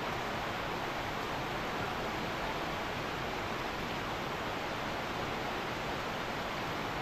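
Heavy rain falling steadily in a storm, an even rushing hiss with no distinct drops or breaks.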